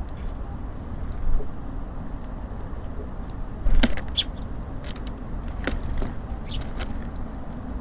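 Small birds at a feeder giving short, high chirps now and then, over a steady low rumble of distant traffic, with a single thump a little before the middle.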